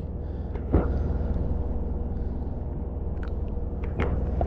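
Steady low rumble of wind on the microphone, with a few small knocks and clicks of handling: a sharp one about a second in, and fainter ones near the end.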